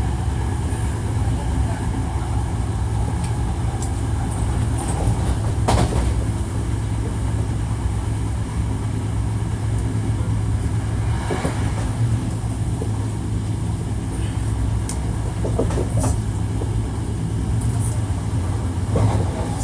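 Interior running sound of a Hankyu 1300 series electric train at speed: a steady low hum and rumble from the running gear, with a few sharp clicks of the wheels over rail joints.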